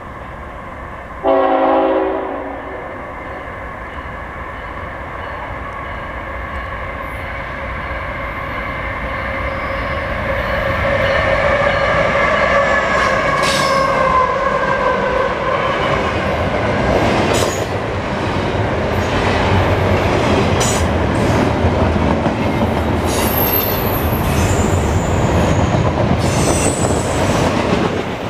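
A short, loud blast of a diesel locomotive's horn comes about a second in. Three GE diesel locomotives (ET44AH 3359 leading, an ES44AC and another ET44AH) grow louder as they approach and drop in pitch as they pass. Loaded double-stack container well cars then rumble and clatter by, with high wheel squeal in the last few seconds.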